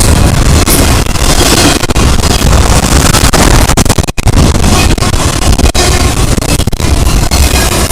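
Freight train passing close by, heard as a loud, distorted rumble that overloads the microphone, with a brief dropout about four seconds in.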